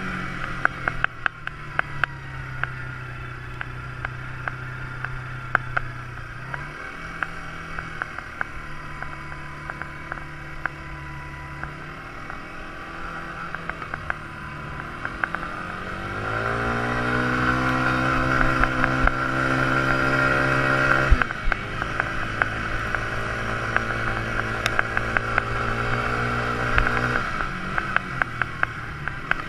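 Quad bike engine running under way. Its pitch rises about halfway through and it runs louder for a few seconds, then drops back suddenly. Frequent small knocks and rattles come through over the engine.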